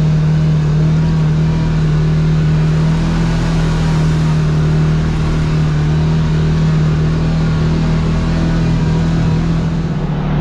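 Kawasaki KRX side-by-side's parallel-twin engine running at a steady speed on the road. At the very end the engine note drops lower as it slows.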